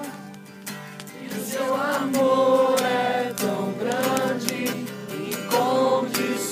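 A worship song sung by a group of voices, with strummed acoustic guitar.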